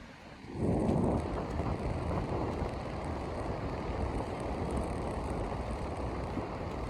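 Wind buffeting the microphone, a steady low rumble that comes in about half a second in after a brief lull.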